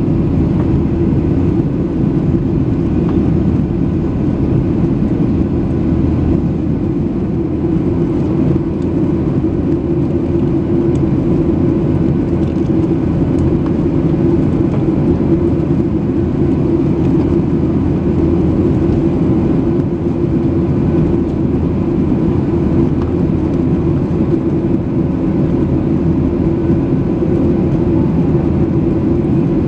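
Steady jet engine and airflow noise inside a passenger airliner's cabin during the climb after takeoff, a constant low drone with a faint steady whine above it.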